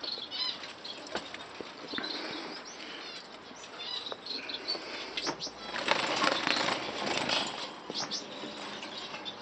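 Aviary finches fluttering their wings, with many short high chirps throughout.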